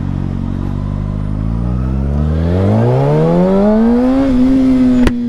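Kawasaki ZX-6R 636 inline-four engine running at low revs, then rising smoothly in pitch over about two seconds as the bike accelerates, and holding a steady higher note. A single sharp click near the end.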